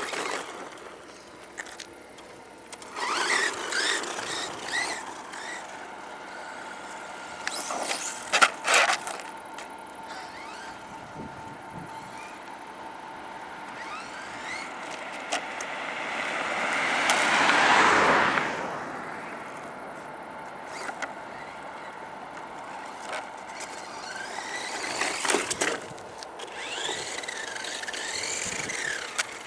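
Brushless electric motor of a HiMOTO RC monster truck whining up and down with the throttle as the truck drives, with a couple of sharp knocks about eight seconds in. It grows louder and fades as it passes close, loudest about two thirds of the way through.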